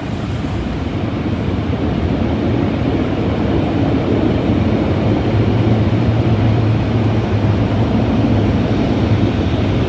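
Automatic car wash air dryer blowers running, a loud steady roar with a low hum heard from inside the car, growing somewhat louder about halfway through.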